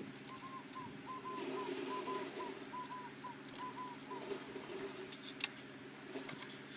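A bird calling a short two-part phrase about five times, each phrase a held note followed by a falling one, over a steady low hum. A few light metallic clicks from the spark plug socket and ratchet come about two-thirds of the way in.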